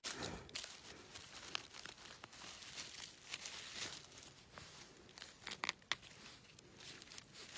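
Rustling and crinkling of hands working through undergrowth while picking wild hazel mushrooms, with irregular small clicks and a few sharper crackles about two-thirds of the way through.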